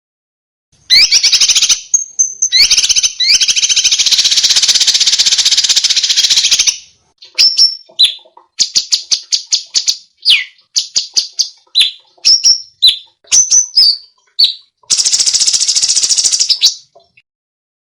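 Recorded songbird song with fast, rough rattling bursts: a long dense rattle from about a second in to about seven seconds, then a string of short sharp notes and upward flicks, then another rattle near the end. Typical of the rough rapid 'tembakan' phrases used as masteran for competition songbirds.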